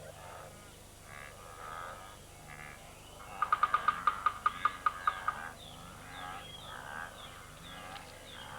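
Animal calls: a quick run of about ten sharp calls, roughly five a second, lasting about two seconds in the middle, with scattered calls before and after.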